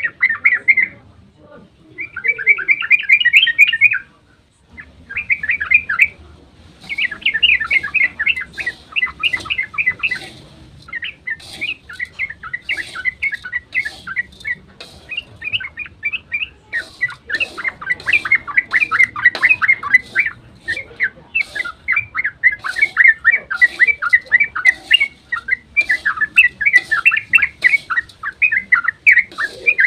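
Yellow-vented bulbul (trucukan) singing its long, rapid, chattering song, fast bubbly notes running almost without a break, with one short pause a few seconds in.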